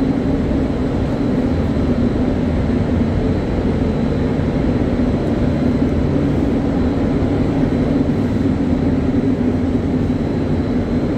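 A loud, steady mechanical roar with a low hum in it, cutting off suddenly just after the end.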